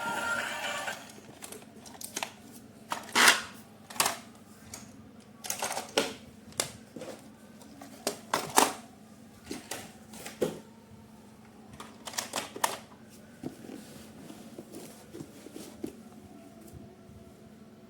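Irregular sharp clicks and knocks, like small hard objects being handled, loudest and most frequent in the first half and thinning out toward the end.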